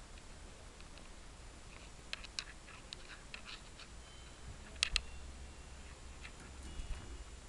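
Scattered faint clicks and rustles, with a couple of brief, high, thin peeps: five-day-old canary chicks stirring in the nest.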